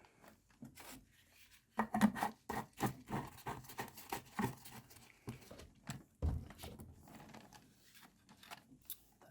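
Small handling noises: irregular clicks, rubs and scrapes of hands moving tools, a cup and parts, with a duller knock about six seconds in.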